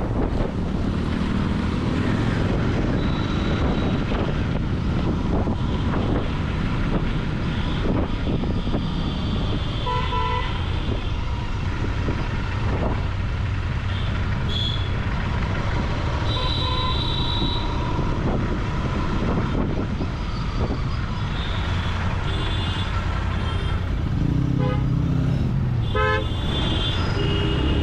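Royal Enfield Continental GT 650's parallel-twin engine and exhaust running under way in traffic. Vehicle horns honk several times around it: about ten seconds in, again a few seconds later, and repeatedly near the end.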